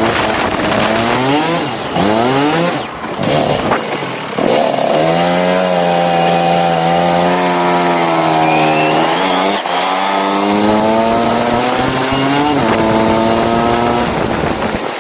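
Go-kart engine on the track: it revs up hard, drops off briefly as the throttle is lifted, then climbs again and holds high revs, with two more short dips and pickups. A steady hiss sits under the engine throughout.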